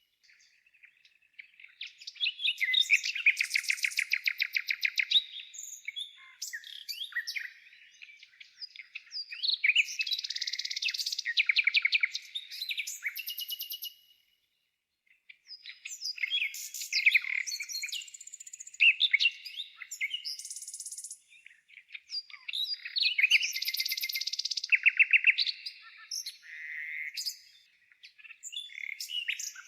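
Songbirds singing: phrases of rapid, high trills a few seconds long, repeating every several seconds with short pauses between.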